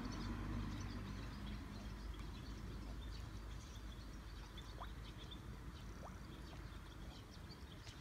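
Outdoor evening ambience: small birds chirping faintly and irregularly, with two short rising whistles in the middle, over a low rumble of road traffic that slowly fades.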